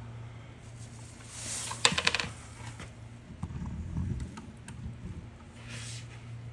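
A quick run of sharp metallic clicks and clinks about two seconds in, then a duller rumbling knock a second or two later, from hand tools or metal parts being handled during motorcycle oil-change work, over a steady low hum.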